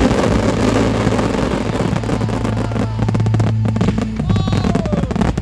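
Fireworks display finale: a dense, rapid run of bangs and crackles over show music with a steady low bass note.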